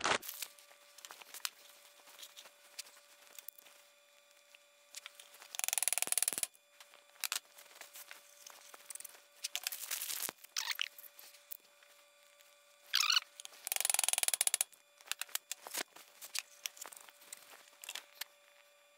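Light rustling, scraping and small clicks of hand cleaning of the brass injector cups in a 7.3 Powerstroke cylinder head, with three louder bursts of rubbing about six, ten and fourteen seconds in.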